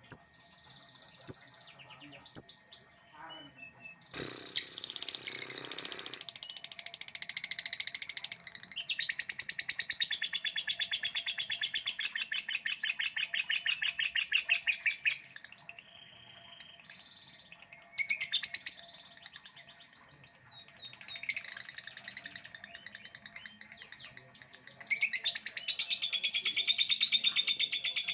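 Lovebird 'ngekek' song: long bouts of rapid, evenly repeated shrill chattering notes, with a few single sharp chirps near the start and pauses between bouts.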